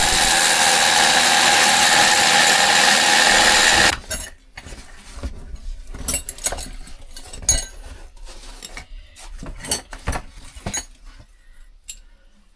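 Power drill boring a bolt hole into a boulder, running steadily for about four seconds and then stopping, followed by scattered clicks and knocks.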